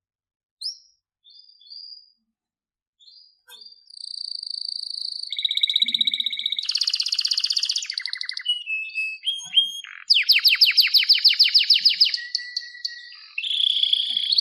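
Domestic canary singing: a few short, scattered chirps, then from about four seconds in an unbroken run of rolling trills and held whistled notes. The fastest, loudest trill comes about ten seconds in.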